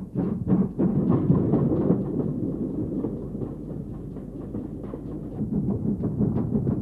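Former GWR Collett 2-6-2 tank engines working hard: steam locomotive exhaust beats coming thick and uneven over a low rumble, easing off midway and building again near the end.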